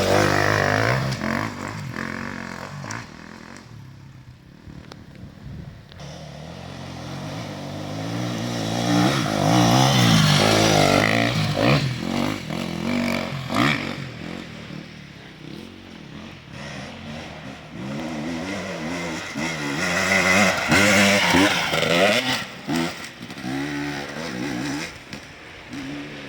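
Enduro motorcycle engines revving and accelerating, the pitch climbing and dropping through the gears. The sound is loudest at the start, again about ten seconds in, and again about twenty-one seconds in.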